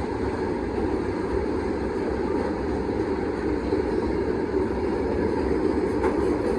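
Freight train rolling slowly past, a steady rumble of steel wheels on rail.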